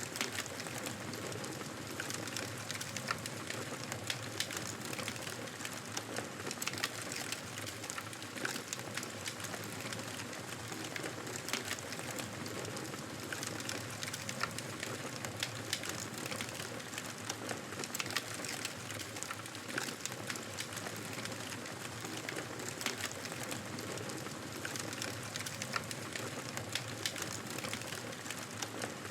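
Wood fire crackling in a fireplace: a steady hiss with frequent small, sharp pops and snaps.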